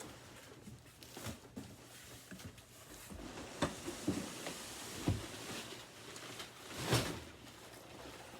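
Handling noises of unpacking a cardboard box: rustling with scattered knocks and taps, and one louder thump about seven seconds in.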